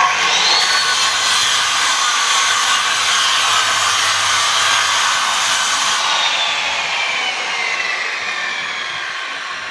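Power saw cutting teak wood. It starts abruptly, runs loud and noisy, and its motor whine rises for a moment and then sinks slowly in pitch as it works through the cut.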